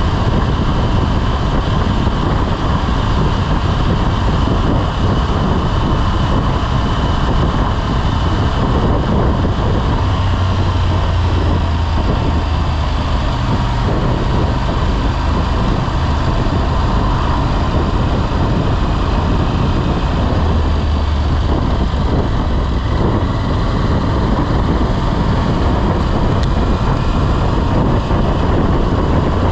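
Motorcycle running at road speed, a steady engine drone under loud wind rush over the microphone, the low engine note strengthening for a few seconds twice.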